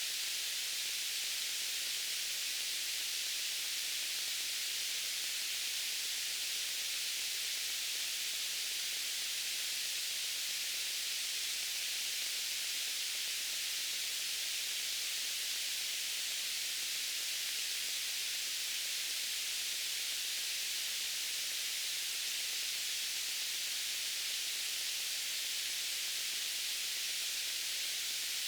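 Steady white-noise hiss, even and unchanging, strongest in the upper range and thin in the bass.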